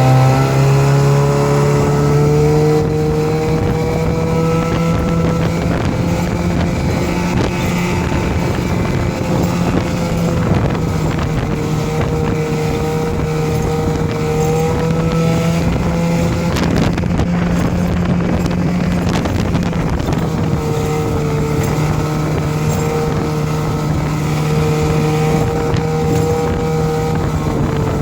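Mercury 110 9.8 hp two-stroke outboard motor running at full throttle on a small boat. Its pitch climbs over the first couple of seconds, then holds steady at a loud, even drone.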